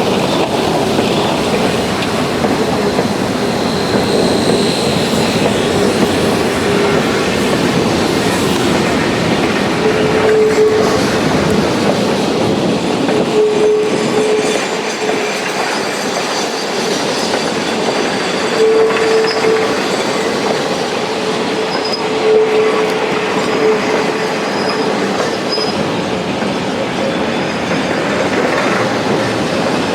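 Geared steam logging train rolling by on the rails, a steady rumble and clatter of wheels and cars, with short wheel squeals several times from about ten seconds in.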